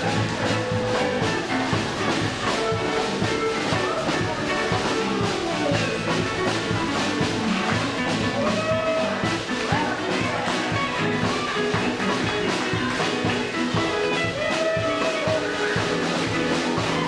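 Live band playing up-tempo 1950s-style rock and roll for a musical's dance number, with a driving drum-kit beat and held horn-like notes.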